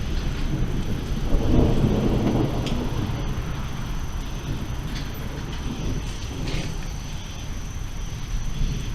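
Rolling thunder rumbling low and slowly fading away, over a steady wash of rain, with a few faint ticks and a thin steady high tone in the background.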